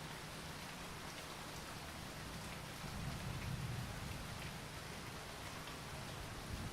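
Steady rain falling, an even hiss with scattered drops tapping. A low rumble swells about three seconds in and again near the end.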